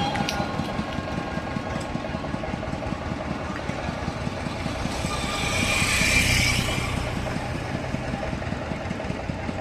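A vehicle engine running steadily, with a louder, hissy swell from about five to seven seconds in.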